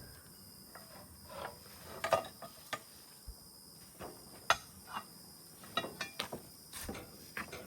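Scattered light knocks and clinks of scrap metal being handled and sorted, a few sharp ones standing out, over a steady high-pitched chirr of insects.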